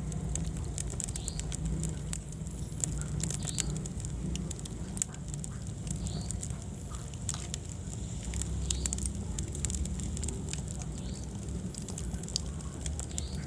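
Wood fire crackling in a fireplace: irregular sharp pops and snaps over a low steady rumble of flame, with a few faint short high squeaks.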